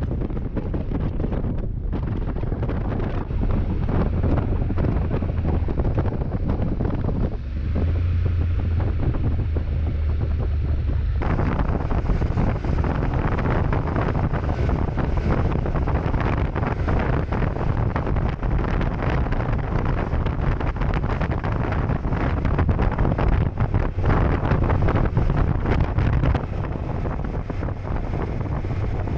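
Wind buffeting the microphone on a moving Honda NC750X motorcycle, over the low, steady drone of its parallel-twin engine at road speed. The sound changes abruptly a few times, as if between clips.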